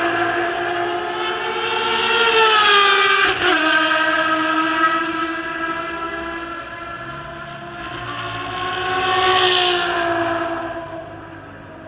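Ferrari V12 race cars running at high revs on a circuit, passing twice. The first pass peaks about three seconds in and its pitch drops sharply as it goes by; a second swells about nine seconds in, then the sound fades.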